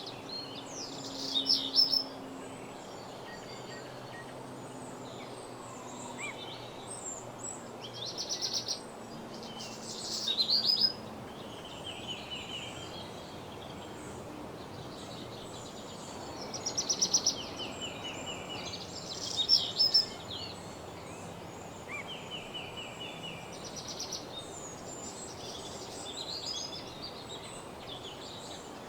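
Songbirds singing in a woodland dawn chorus: loud, fast trilled song phrases come five times, with softer chirps from other birds in between, over a steady background hiss.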